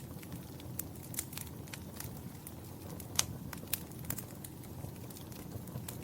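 Fire crackling: irregular sharp pops and snaps over a steady low rumble, with one louder pop about three seconds in.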